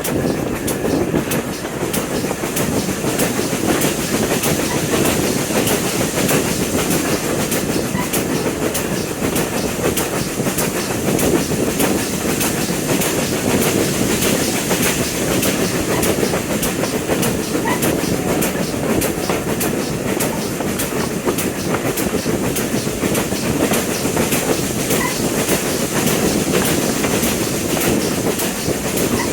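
Train running steadily along the rails: a constant rumble with regular clickety-clack of the wheels over the rail joints.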